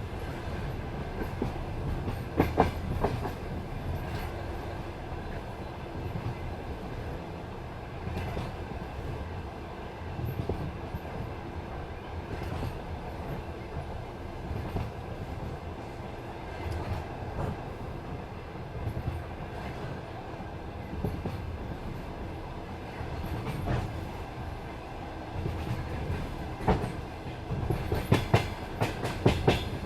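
Passenger train running on jointed track: a steady low rumble of the wheels with clickety-clack knocks as the wheelsets cross the rail joints. There is a cluster of knocks about two and a half seconds in and a denser run of them near the end.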